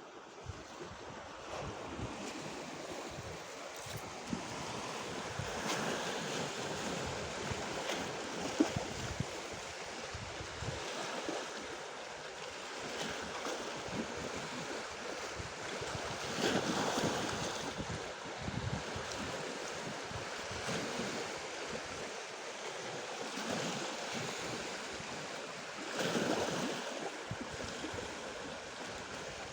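Black Sea surf: waves washing in against the shore, with several louder surges of breaking water, and wind gusting on the microphone.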